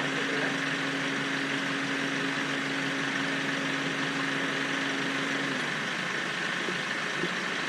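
Steady hiss of a bicycle rolling along a wet road in the rain, with a steady low hum that stops about five and a half seconds in.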